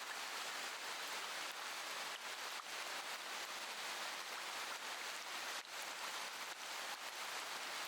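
Steady rain falling: an even hiss with a faint patter of drops.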